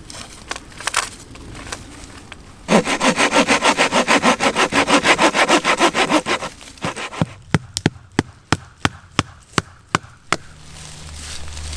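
Hand saw cutting wood in fast, even strokes for about four seconds, followed by a dozen separate sharp knocks on wood.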